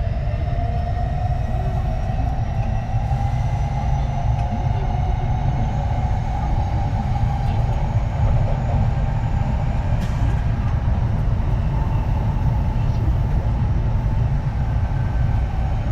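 Kintetsu 3220 series train running, with the Hitachi IGBT VVVF inverter and traction motor whine rising in pitch as the train gathers speed and levelling off about halfway through. A steady wheel-on-rail rumble runs underneath.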